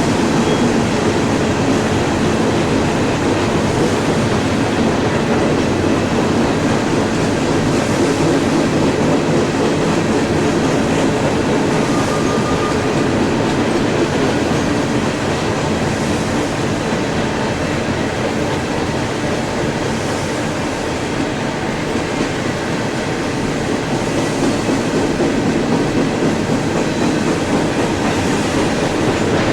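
CSX freight train rolling past, its cars' wheels running over the rails in a steady, loud clatter.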